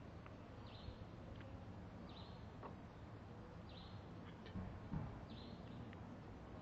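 Faint bird chirping, one short chirp repeated about every second and a half over a low background hum, with a soft knock about five seconds in.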